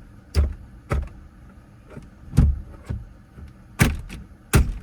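Plastic lower dash trim panel of a Toyota Prius being struck by hand to seat it: about six sharp thumps, in loose pairs roughly half a second apart.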